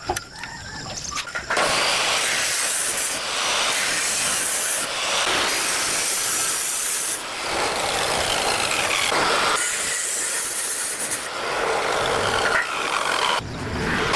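Loud steady hissing that starts about a second and a half in, changing in tone every couple of seconds.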